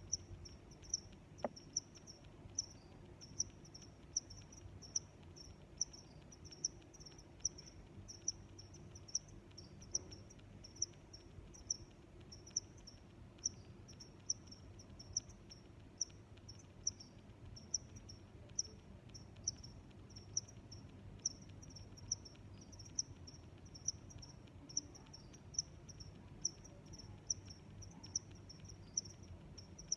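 Cricket chirping in a steady, even rhythm of short high-pitched chirps, about two a second, over a faint low background hum.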